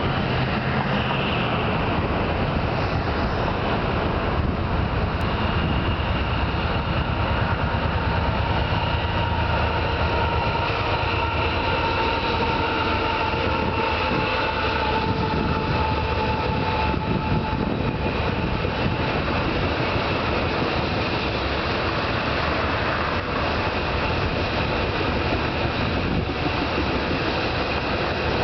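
Union Pacific coal train passing: GE AC4400CW diesel-electric locomotives followed by coal hopper cars rolling over a railway bridge, a loud steady rumble of engines and wheels with a few faint whining tones above it.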